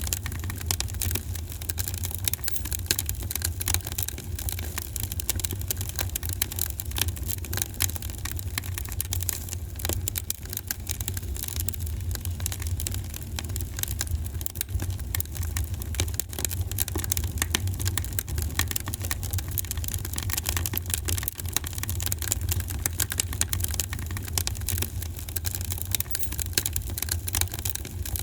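Wood fire crackling in a fireplace: dense, irregular crackles and pops over a steady low rumble.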